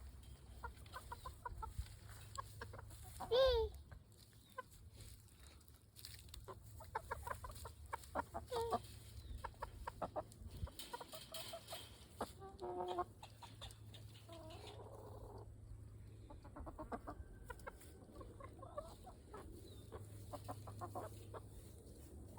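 Chickens clucking repeatedly in short calls, with one loud, longer squawk about three and a half seconds in.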